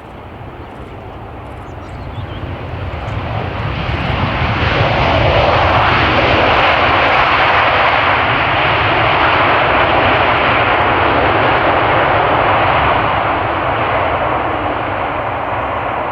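Jet airliner's engines as the aircraft passes close by: the roar builds over the first few seconds, holds loud for most of the time, then eases off slightly near the end.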